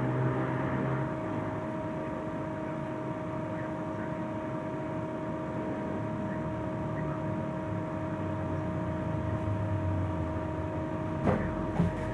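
Scania trolleybus running, heard from on board: a steady rumble of the moving bus with a constant high electric hum, and two short knocks near the end.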